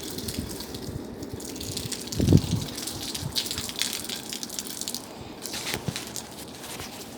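Bonfire burning, with a steady rushing noise and many sharp crackling pops, and one loud low thump about two seconds in.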